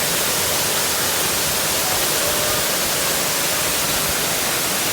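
A waterfall's water crashing down as a steady, loud rushing hiss.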